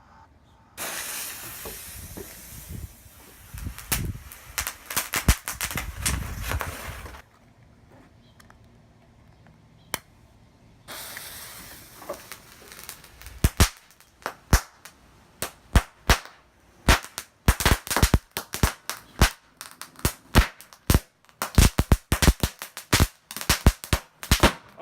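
Homemade pen firecrackers packed with firework powder burning off. First comes a loud rushing hiss for about six seconds with a few cracks in it. After a pause a second hiss starts, then turns into a long run of sharp, irregular crackling pops, typical of crackling-firework powder.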